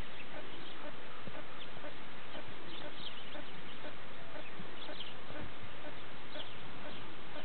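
Scattered short bird chirps and calls over a steady outdoor background hiss.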